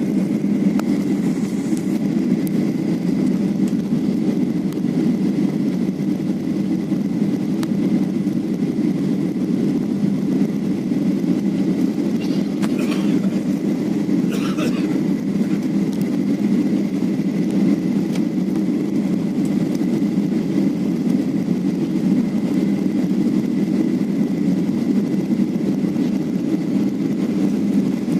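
Airliner cabin noise as the plane comes in to land: a steady, even rumble of engines and airflow, with a faint steady high whine above it.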